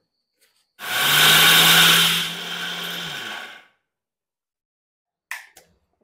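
Electric mixer grinder running for about three seconds, grinding dried red chillies with roasted whole spices to a coarse powder. It is loudest at first, then runs quieter and steady before it stops. A short knock comes near the end.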